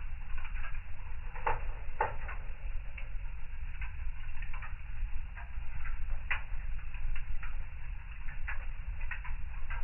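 Fire burning in a fireplace, crackling with irregular sharp pops over a steady low rumble. The loudest pops come about one and a half and two seconds in, and again just past six seconds.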